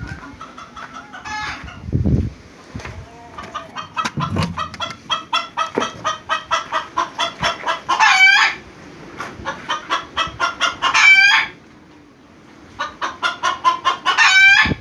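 Chickens cackling: three runs of quick, repeated clucks, each building to a loud, drawn-out squawk. Two dull thumps come a few seconds in.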